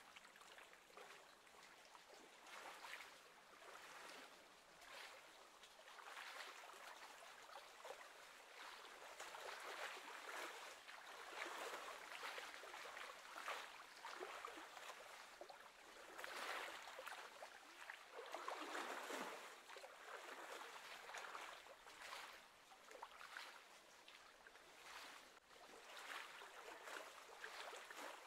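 Faint lapping of choppy lake water, swelling and easing every second or two.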